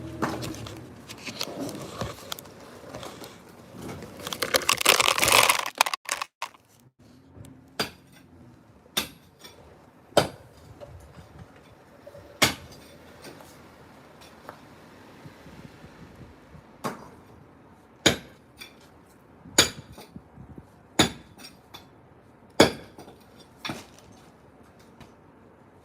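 Concrete being broken by hand with a hand tool. It opens with several seconds of continuous clattering and crumbling, then about ten separate sharp clinking strikes on the concrete, each a second or two apart.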